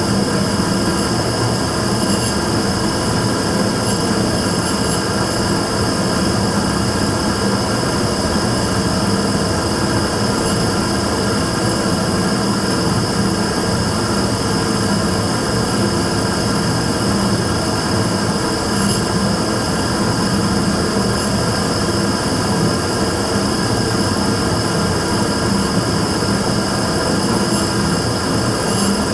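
Immersion tube burner running steadily, a dense noise with a low hum and a high whine held throughout; this is the abnormal noise (異音) the burner is being recorded for.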